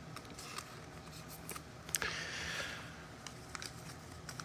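Trading card packaging being handled: small scattered clicks and, about two seconds in, a sharp click followed by a brief rustle or tear of wrapper.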